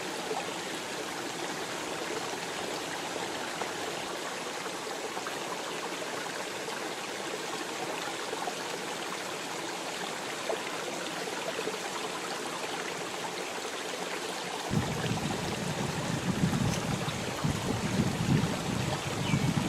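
Steady rushing of flowing water, like a stream. About fifteen seconds in it changes suddenly to uneven low rumbling gusts of wind buffeting the microphone.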